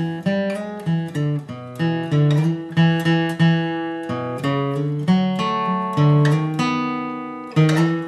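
Acoustic guitar flatpicked in a bluegrass lead run: a quick series of single picked notes moving down, some left to ring longer.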